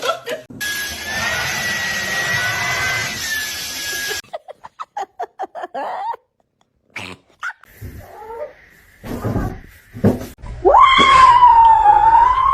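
A string of short home-video clips of pets, ending in a long, loud, wavering yowl from a cat that starts about ten seconds in, rising at first and then bending up and down in pitch.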